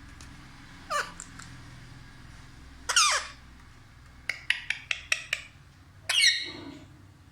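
Pet parrot calling: three loud squawks with falling pitch, about one, three and six seconds in, and between them a quick run of about seven short, sharp chirps.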